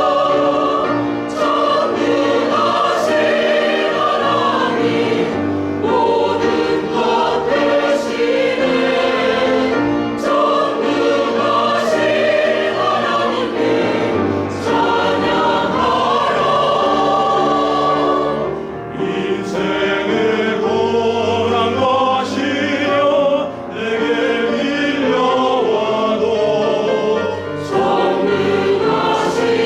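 Church choir singing a sacred anthem in sustained chords, phrase after phrase with short breaks between them.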